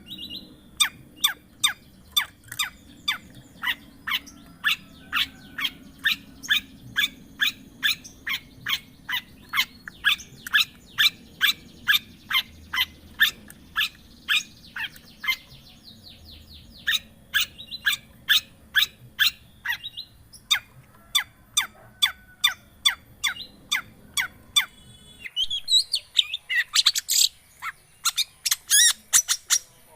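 Long-tailed shrike (cendet) singing: a fast, steady series of sharp, high, repeated notes, two to three a second, breaking into a denser burst of varied chattering notes near the end.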